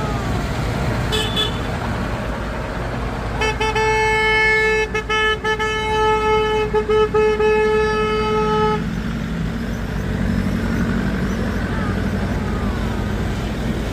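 Train horn sounding one long steady blast of about five seconds, starting a few seconds in, over the continuous low rumble of the train running.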